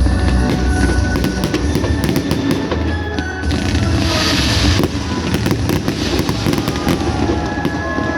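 Firework display: rapid crackling and low booms from bursting shells, with a loud hissing burst about halfway through, over music playing alongside.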